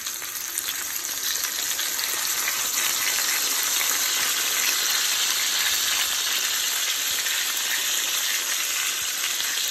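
Pork chops and sliced mushrooms frying in oil in a nonstick pan: a steady sizzle with fine crackling, growing a little louder over the first few seconds.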